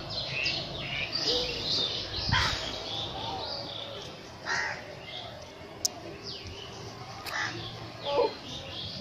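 Birds calling: a quick run of chirps in the first second or so, then single harsh calls every couple of seconds. A sharp click about six seconds in.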